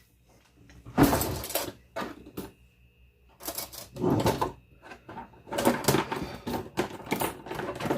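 Kitchen handling noise: dishes, utensils and containers clattering and being set down in several bursts, with a faint steady high tone for a couple of seconds in the middle.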